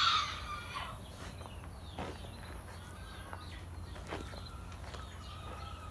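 Chickens clucking and calling, a brighter squawk in the first second, then faint scattered clucks, with a few soft scuffs and a steady low rumble underneath.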